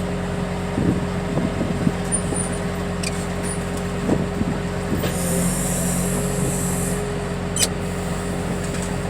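Heavy vehicle engine idling steadily, with a few light knocks and a hiss of released air lasting about a second and a half from about five seconds in.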